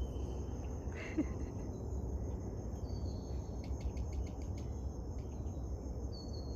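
Steady high-pitched drone of insects calling in a marsh, cricket-like, over a low rumble. A few short high chirps are heard, and a quick run of clicks comes about four seconds in.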